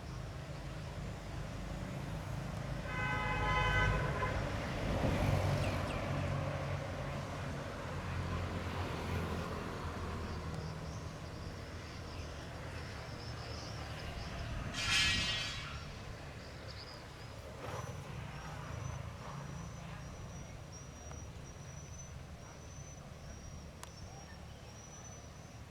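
An engine running steadily, with two short horn toots: one about three seconds in and a higher one about fifteen seconds in.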